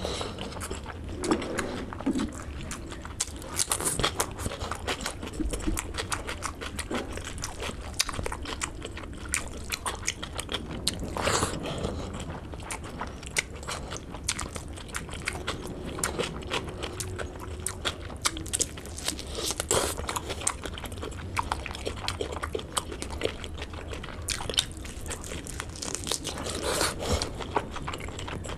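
Close-miked chewing and biting of pork curry and rice eaten by hand: many small wet clicks and smacks of the mouth, with a few louder bites, over a faint low hum.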